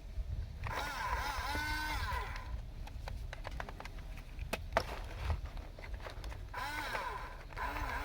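Electric drive motors and plastic gearbox of a Huina 1569 RC bulldozer whining in two bursts, the pitch rising and falling as it drives, with a few sharp clicks in between.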